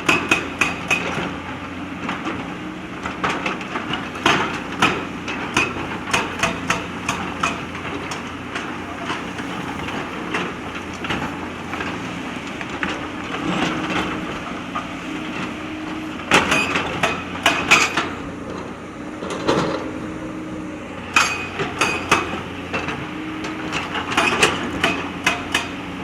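JCB backhoe loader's diesel engine running steadily while the bucket clatters and knocks against river stones in several bursts of rapid impacts.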